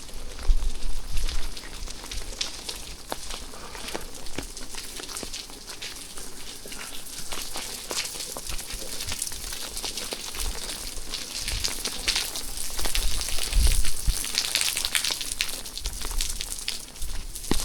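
Rain falling steadily, a dense patter of many small drop hits that thickens in the second half, with a few low bumps.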